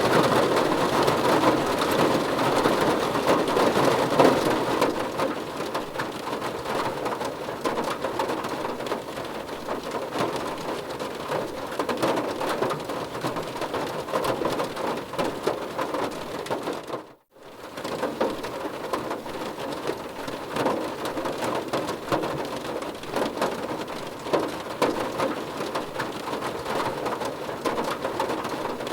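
Steady heavy rain drumming on a car's roof and windows, heard from inside the car. It is a little louder for the first few seconds, and it cuts out for a moment about 17 seconds in before carrying on.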